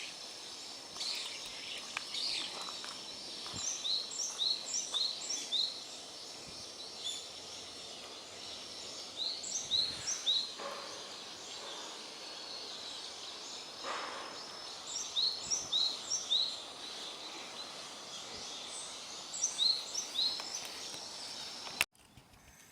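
Small wild birds calling in quick runs of short, high chirps, several bouts a few seconds apart over steady outdoor background noise; the recordist takes them for alarm calls warning of an earthquake. A click and a sudden drop in the background about a second before the end.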